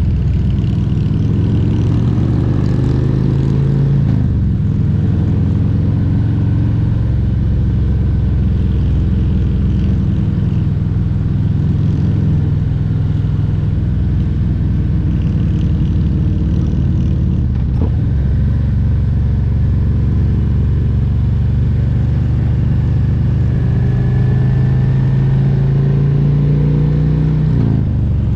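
Harley-Davidson Road Glide Special's Milwaukee-Eight 114 V-twin running under way, its pitch climbing slowly under throttle and dropping suddenly about four seconds in and again just before the end, as at a gear change.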